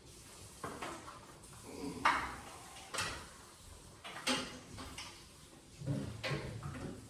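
Scattered knocks, clicks and short scraping rustles, about half a dozen spread over several seconds, from hand work with electrical wire and tools.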